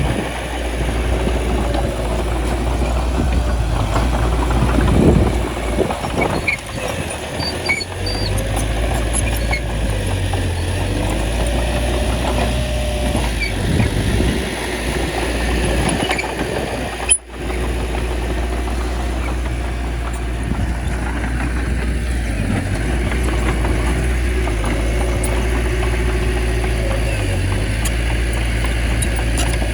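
Bulldozer's diesel engine running steadily, with a few scattered knocks. The sound cuts out for an instant about 17 seconds in.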